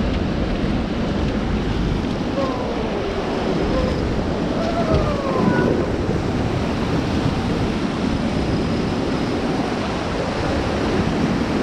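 Steady rush of fast river water through rapids, a continuous dense noise.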